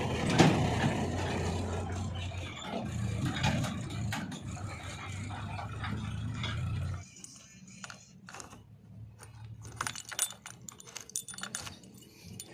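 Diesel engine of heavy farm or earthmoving machinery running steadily, with a loud clank about half a second in. About seven seconds in the engine sound stops abruptly, leaving scattered light rattling and clicking.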